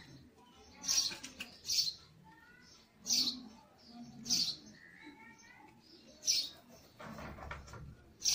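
Small birds chirping, short high chirps about once a second with fainter calls between them, and a louder rustling handling noise about seven seconds in.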